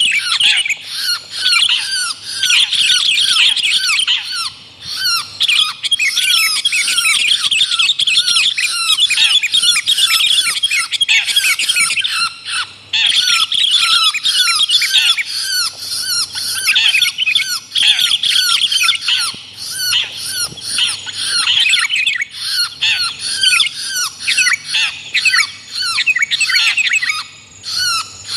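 Long-tailed shrike and sooty-headed bulbul calls mixed together as a bird-trapping lure recording: a dense, continuous chatter of harsh, rapidly repeated notes with only brief pauses.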